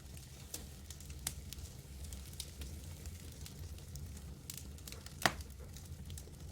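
Campfire crackling: scattered sharp pops and snaps from the burning wood over a steady low rumble of the fire, with one louder crack about five seconds in.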